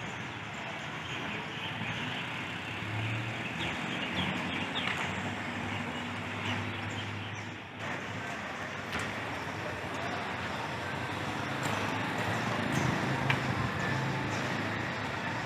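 City traffic running, with engine hum from passing vehicles swelling and fading, and scattered short bird chirps over it.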